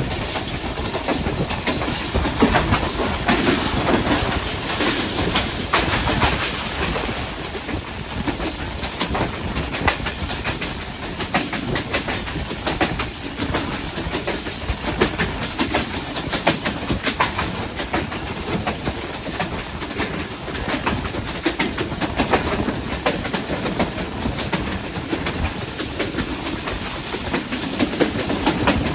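Moving passenger train: the steady rumble of the coach with the clickety-clack of its wheels over the rail joints.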